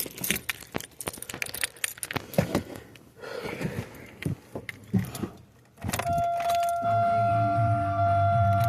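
Car keys jangling and clicking into the ignition, then, about six seconds in, a steady electronic warning tone over a low hum as the ignition is switched on, just before cranking.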